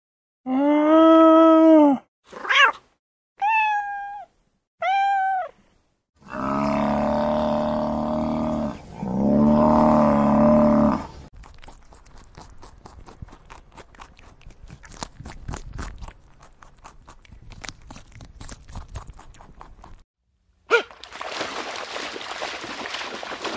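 Alpacas calling: two drawn-out arched cries, three short sliding cries, then two longer, lower, rougher calls. This gives way about halfway through to a dense dry crackling, like a rabbit moving in hay. Near the end come a sharp click and a steady rough hiss, like a beaver feeding in shallow water.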